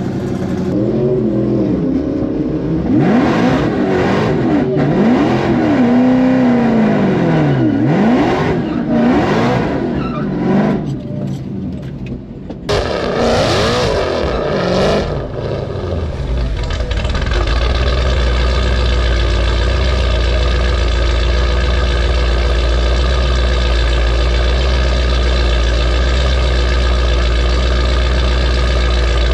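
Car engines revving in repeated rising and falling sweeps, then settling about halfway through into a steady, deep engine drone.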